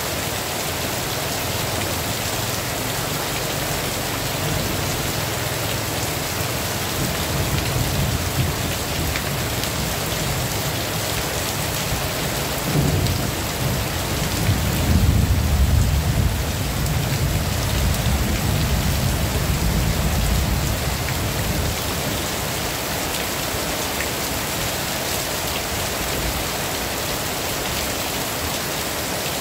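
Heavy rain falling steadily, with a long rolling rumble of thunder that builds about a quarter of the way in, is loudest around the middle and dies away about two-thirds of the way through.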